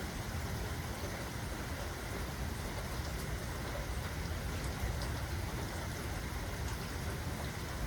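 Steady rain falling, an even hiss with scattered drops pattering, with no distinct thunderclap.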